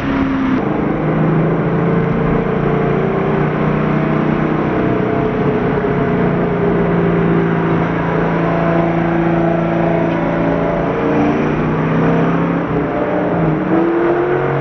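Car engine and exhaust droning at a steady cruise. The pitch holds nearly level, then dips and climbs again near the end.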